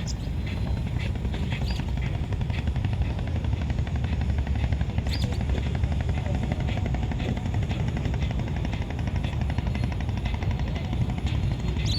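A steady low engine rumble with a fast, even pulse, unchanging throughout, with a few faint short high chirps above it.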